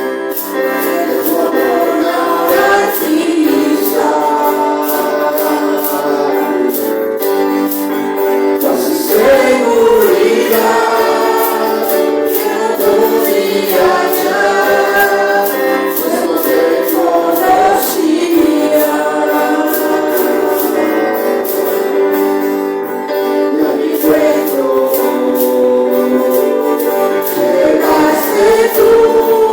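Congregational worship music: a group of voices singing a praise song over instruments, with a steady tambourine-like percussion beat.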